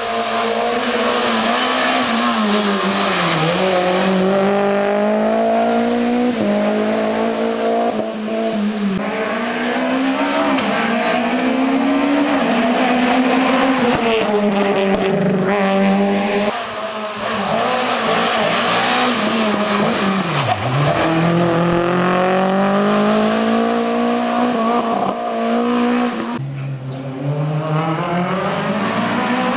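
Rally car engines at full throttle, pitch climbing and dropping again and again through gear changes and lifts, with some tyre squeal. The sound changes abruptly a few times as one car gives way to the next.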